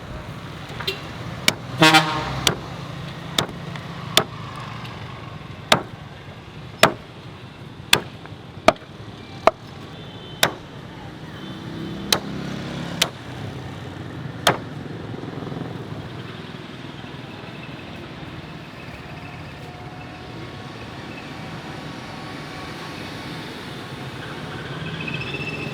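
A cleaver chopping pork hock on a block: about fifteen sharp strikes at uneven intervals over the first fifteen seconds, then stopping. A brief horn toot comes near the start, over a steady hum of traffic.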